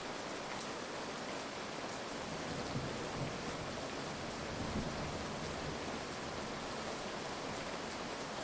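Steady heavy rain. There are two brief low rumbles of thunder near the middle, about three and five seconds in.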